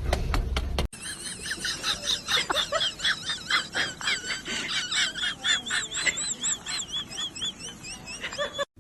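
Many rapid, high-pitched animal chirps and squeaks, quick wavering calls one after another, which stop suddenly near the end. Before them, in the first second, come a few clicks over a low rumble.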